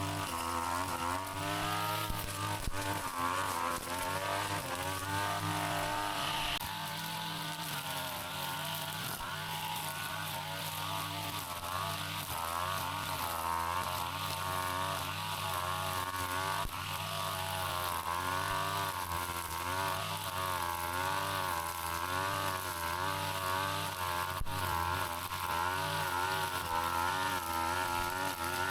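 Brush cutter engine running without a break, its pitch rising and falling every second or so as it cuts through tall grass and weeds.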